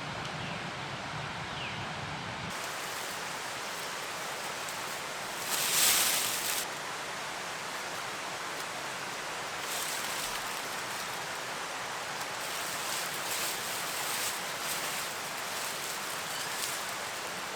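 Rustling and handling sounds over a steady outdoor hiss, with one louder rustle about six seconds in and scattered shorter rustles and clicks in the second half.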